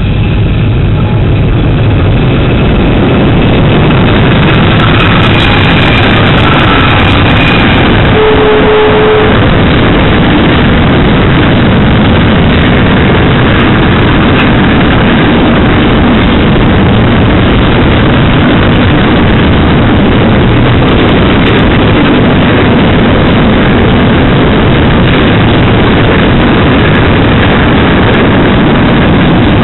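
Pacific National freight train hauled by three NR-class diesel-electric locomotives arriving and running past, then a long string of container wagons rolling by. The loud, steady din of engines and wheels on rail builds over the first few seconds and then holds. A short steady tone sounds about eight seconds in.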